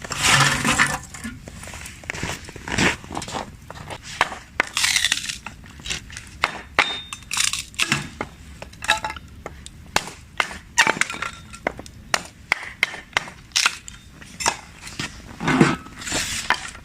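Food-preparation handling sounds: irregular sharp clicks and knocks, often several a second, with three longer noisy bursts near the start, about five seconds in, and near the end.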